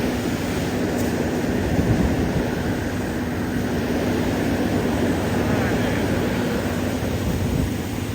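A steady engine drone with a low hum, under a constant rushing noise.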